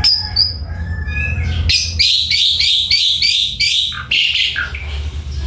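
Asian pied starling (jalak suren) singing: a varied string of whistles and glides, with a run of about six quick, rough repeated notes in the middle, over a steady low hum.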